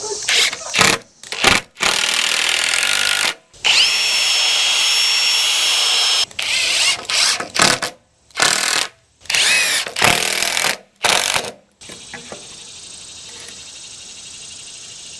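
Electric power tool, drill-like, running in a series of short bursts with one longer steady run of a couple of seconds, its motor giving a steady high whine. It stops about twelve seconds in.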